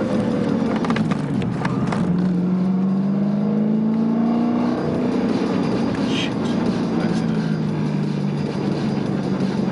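BMW E92 M3's 4.0-litre V8, heard from inside its cabin under acceleration: the revs climb steadily for a few seconds, drop about five seconds in at a gear change, then hold fairly steady.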